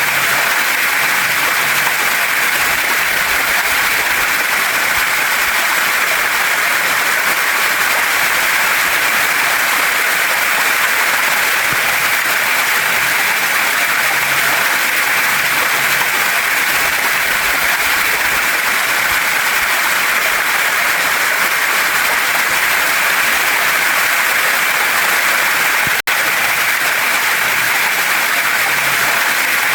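Waterfall and stream water rushing, a loud, steady, even hiss with no breaks in its flow apart from a split-second dip in level late on.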